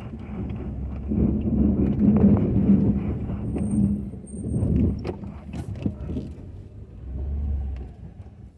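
Ford F-250 pickup's engine running while plowing snow, a steady rumble that rises and falls.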